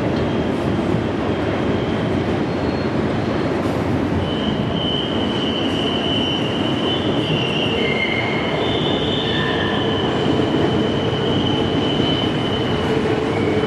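Double-stack container cars of a freight train rolling over a steel truss bridge, a steady rumble of wheels on rail. From about four seconds in, high-pitched wheel squeal rings over it and keeps on for several seconds.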